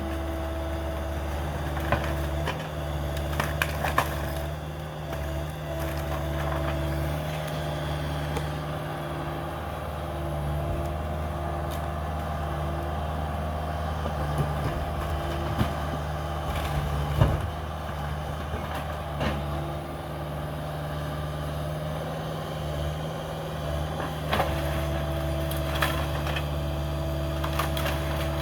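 Cat 305 mini excavator's diesel engine running steadily, with scattered sharp cracks and knocks of wood and debris being broken during demolition. The loudest knock comes about 17 seconds in.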